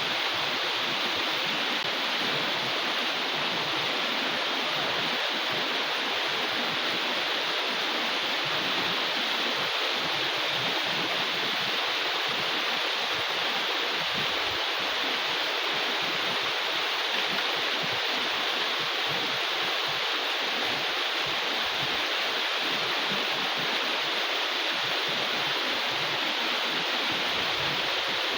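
Heavy rain falling in a steady downpour: an even, unbroken hiss with no let-up.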